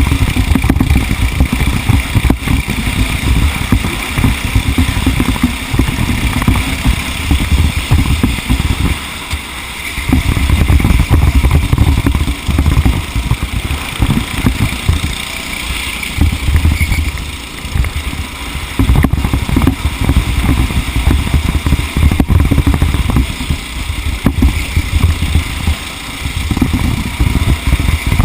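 A vehicle running at speed, heard from on board, with heavy gusty wind rumble on the microphone that rises and falls over the engine noise.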